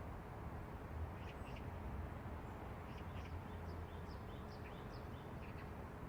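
Small birds chirping in short, quick calls through the middle, over a steady low rumble of city traffic.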